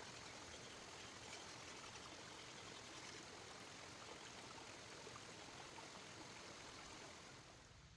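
A faint, steady rushing noise, easing slightly near the end.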